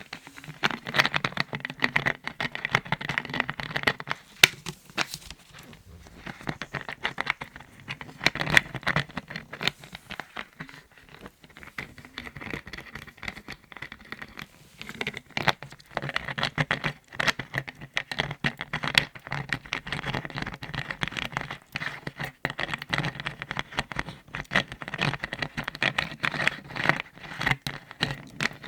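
Rapid tapping and scratching on lids, a dense run of small clicks with a couple of quieter stretches.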